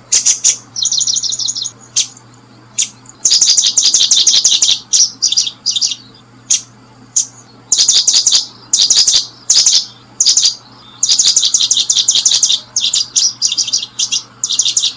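Small birds chirping loudly in repeated bursts of rapid, high, trilled notes, some runs lasting a second or more, broken by short gaps.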